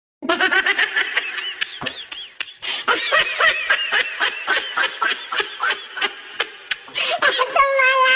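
High-pitched laughter: quick repeated giggling bursts, ending in a longer held squeal near the end.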